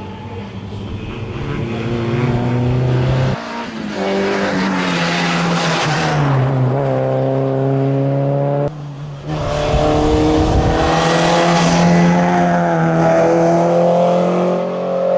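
Rally car engine at high revs passing by at speed, its note climbing and then falling away as it goes past. The sound breaks off abruptly twice, about 3 s and 9 s in.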